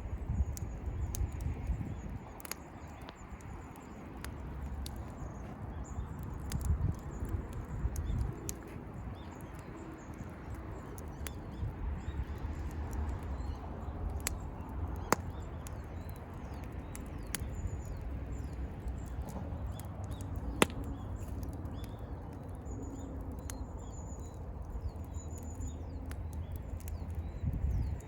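Wood campfire crackling, with sharp irregular pops and a few louder snaps over a low rumble. Birds chirp faintly in the background.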